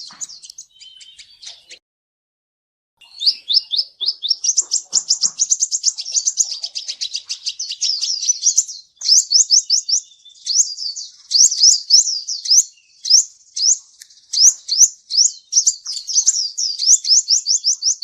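Sunbird (the Kolibri Ninja of Indonesian bird-keepers) singing a rapid, high-pitched series of quick chirping notes. It breaks off for about a second near the start, then resumes as a long, fast, rhythmic trill.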